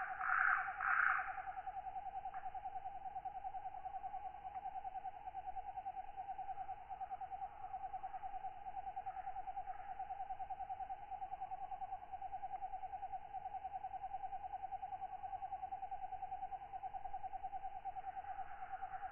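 Tropical night ambience: a steady, fast-pulsing insect trill runs throughout, with katydids' raspy calls bursting in briefly about a second in and again near the end.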